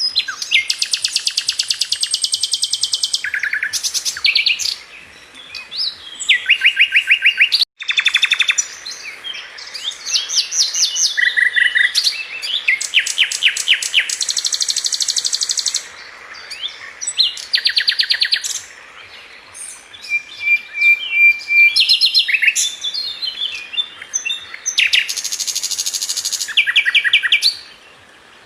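Sikatan London flycatcher singing a varied song of rapid high trills and quick repeated note series, phrase after phrase with short pauses between them.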